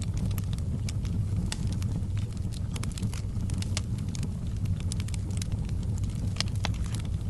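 Fire burning in a fireplace: a steady low rumble of flames with frequent irregular sharp crackles and pops.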